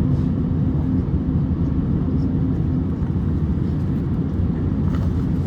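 Steady low cabin rumble of an Airbus A350-900 taxiing, its Rolls-Royce Trent XWB engines at taxi thrust, heard from inside the passenger cabin. A faint steady hum sits on top for the first couple of seconds.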